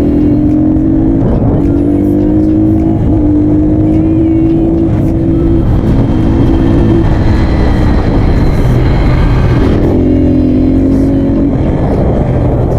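A 250 cc dirt bike engine running on a trail ride. Its steady note drops away briefly several times and is gone for a few seconds past the middle, over a heavy low rumble.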